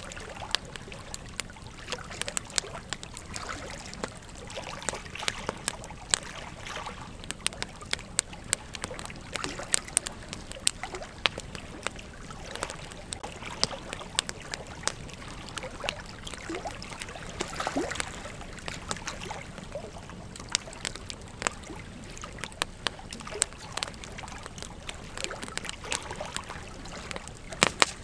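Campfire crackling, with many irregular sharp pops and snaps over a steady low hiss of burning wood.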